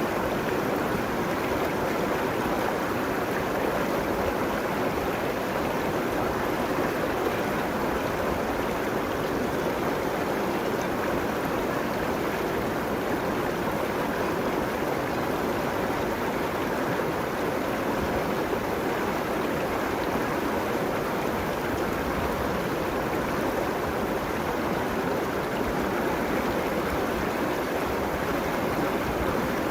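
River water running over rocks along the bank: a steady, unbroken rushing.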